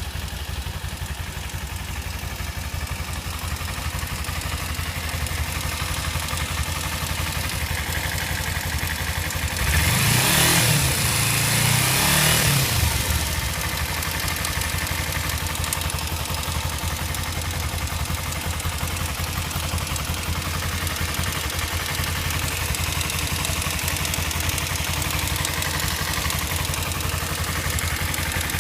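Kawasaki Ninja 250cc motorcycle engine idling with a ticking noise whose cause the owner cannot identify, revved up and back down once about ten seconds in.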